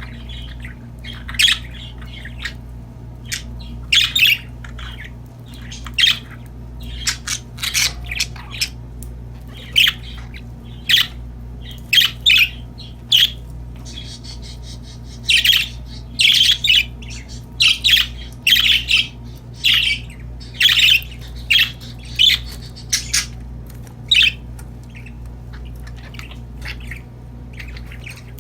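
Budgerigars (pet parakeets) chirping and squawking in short, sharp calls at an irregular pace, busiest in the middle, over a steady low hum.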